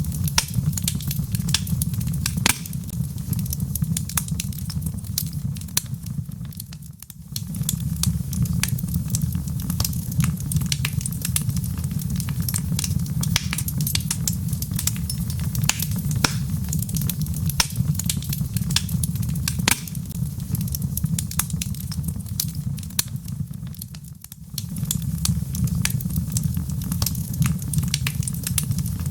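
Log fire crackling, with frequent sharp pops and snaps over a steady low roar of flame. The sound dips briefly twice, about 7 and 24 seconds in, then comes back.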